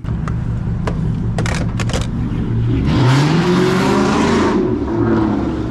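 Turbocharged Ford Mustang accelerating hard, its engine note climbing in pitch under load, with a loud rushing hiss over it for a second or so near the middle and a few sharp clicks before that.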